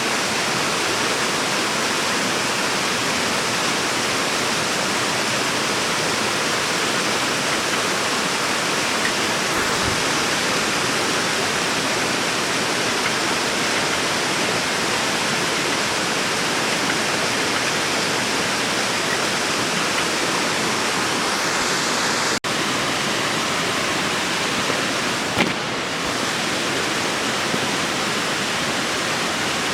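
Mountain stream rushing steadily over rocks, an even wash of flowing water, broken by a momentary dropout about three-quarters of the way through.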